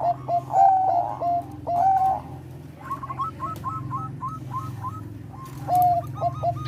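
Zebra dove cooing in quick runs of short, clipped notes, with a higher-pitched run about three seconds in, over a low steady hum.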